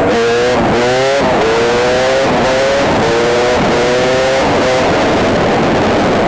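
KTM 250/300 EXC two-stroke dirt bike engine revving again and again after a top-end rebuild, each rev a short climb in pitch that breaks off and starts over.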